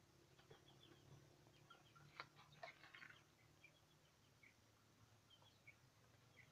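Near silence outdoors: faint, scattered short bird chirps, with a few soft clicks about two to three seconds in.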